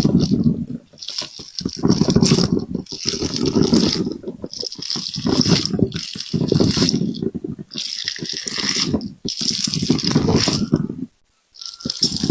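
Jelly being squeezed and popped, making wet squishing and crackling sounds. These come in repeated bursts of about a second, with short pauses between them.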